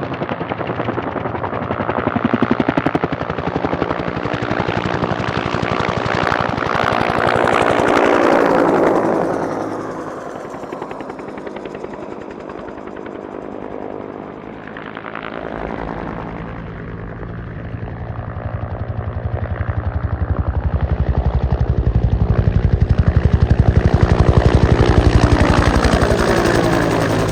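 Firefighting helicopter flying past with the rapid beat of its rotor blades, growing loud to a close pass about eight seconds in and fading. Another close pass builds up toward the end.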